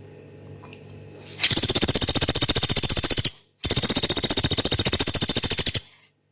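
Pelatuk beras, a small woodpecker, giving two long, very fast harsh rattles of about two seconds each, with a brief break between them.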